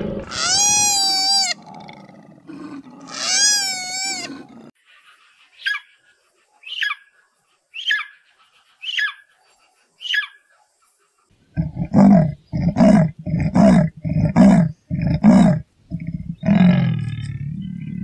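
Animal calls from several different animals in turn. First come two long calls that rise and fall in pitch, then five short high falling chirps about a second apart. About halfway through, a run of deep, loud calls begins at roughly two a second.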